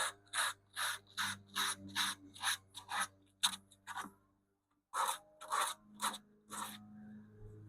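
Sandpaper rubbed back and forth by hand along the thin veneered edge of a wooden radio cabinet. The strokes come about three a second, pause briefly a little past the middle, then resume for a few strokes before fading.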